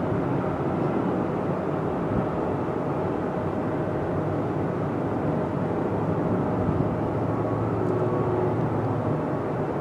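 Boeing 737 jet engines on approach to land, a steady roar with a few faint steady whining tones through it.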